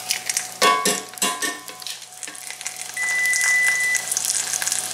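Breaded steak frying in shallow oil in a cast-iron skillet, sizzling and crackling. Metal tongs clack against the pan a few times in the first second and a half as the steak is turned over, and the sizzle grows louder from about three seconds in.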